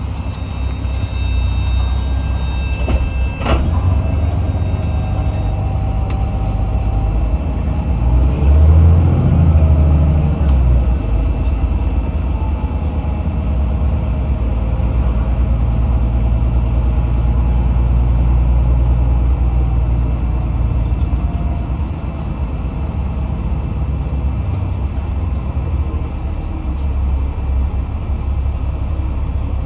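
Diesel engine of a Yutong ZK6128HG city bus running, a steady low drone heard from inside the passenger cabin. A sharp knock about three and a half seconds in, and the engine grows louder briefly around nine seconds in.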